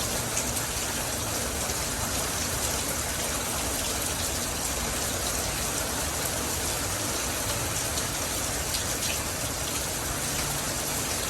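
Heavy rain falling steadily, with a dense hiss and scattered drops pattering on nearby surfaces.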